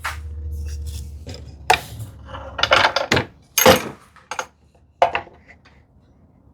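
Wood and metal knocks and clatter from handling a clamped drawer box glue-up and its clamps on the workbench: a low scraping drone in the first second, then a handful of separate sharp knocks that die away near the end.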